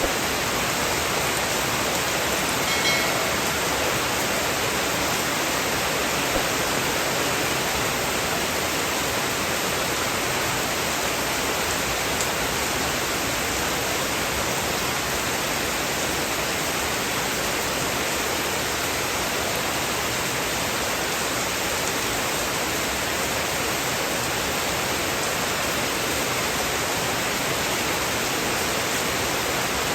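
Heavy rain falling steadily: an even, dense hiss with no thunder. A brief faint pitched tone sounds about three seconds in.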